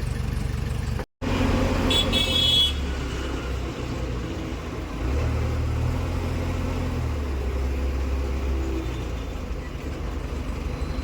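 JCB 2DX backhoe loader's diesel engine running steadily, its note rising for a couple of seconds midway. A short high toot sounds about two seconds in.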